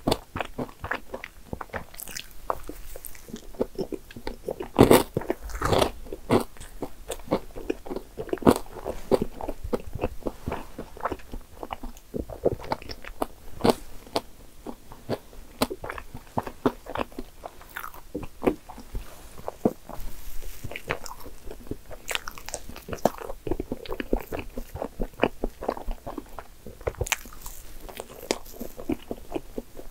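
Close-up eating sounds: biting and chewing soft soufflé pancake with whipped cream, then soufflé sandwich, with crunchy bites and many short wet mouth clicks.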